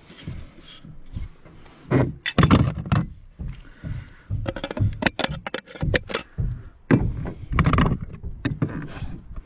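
Irregular knocks, taps and clatter from hands-on roofing work with fibre-cement slates, with heavier thuds about two seconds in and near eight seconds and a quick run of sharp taps around five to six seconds.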